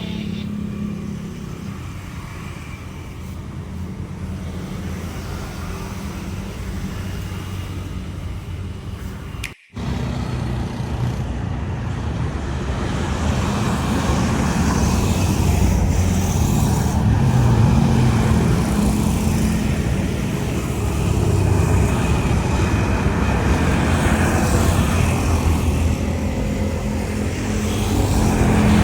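A low engine rumble, cut off briefly about ten seconds in. After that comes the sound of a jet airliner's engines at takeoff power, growing louder as it rolls and climbs.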